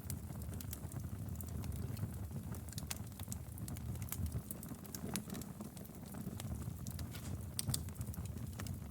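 Wood fire crackling in a fireplace: irregular sharp pops and snaps, a few louder ones, over a steady low rumble of the burning logs.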